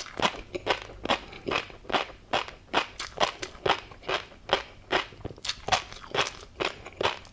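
Close-miked chewing of tobiko fish roe and a crunchy seafood topping: a steady run of crisp crunches, about three a second.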